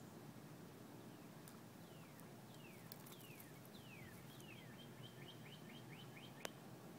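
A bird singing faintly: a run of about six downward-slurred whistles, then a quick series of short notes. A single sharp click comes near the end.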